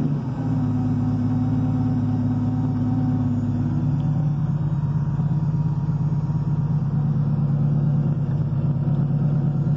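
Air-cooled flat-six of a turbocharged Porsche 911-based 934 build running at low revs, heard from inside the cabin as a steady low drone, one note in it falling away about four seconds in.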